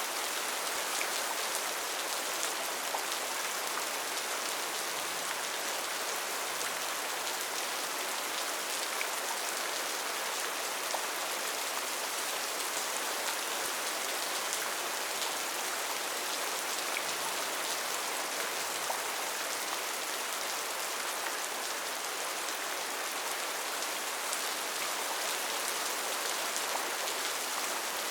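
Steady rain pattering on leaves and surfaces, an even hiss of many small drops with no let-up.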